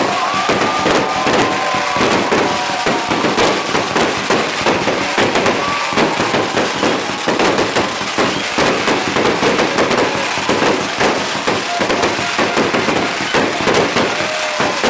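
Fireworks going off in a dense, continuous crackle of rapid bangs and pops, with a few short whistles in the first few seconds.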